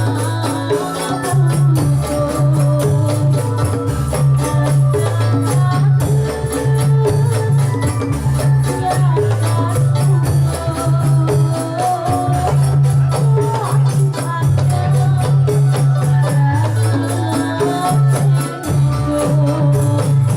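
Dolalak dance music: a steady, driving percussion beat with jingling tambourine-like shakers over a repeating low bass pattern, with a melody line above.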